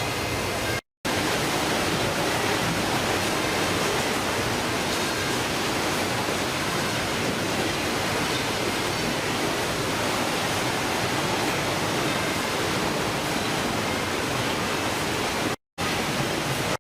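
Steady rushing noise with no pitch or rhythm, broken twice by a split-second drop to total silence, about a second in and near the end, where the footage is cut.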